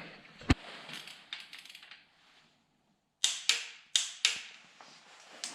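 Sharp metallic clicks and clinks of hand tools and engine parts being handled while a new water pump is fitted: one click about half a second in, then four quick clicks a little past the middle.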